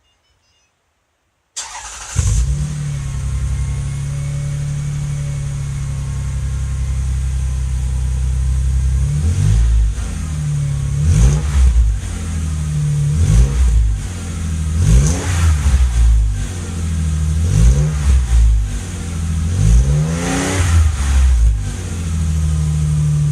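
Toyota Harrier engine with a split dual exhaust starting up about one and a half seconds in, then idling steadily. From about nine seconds in, the throttle is blipped about six times, each rev rising and falling back, before it settles to idle again.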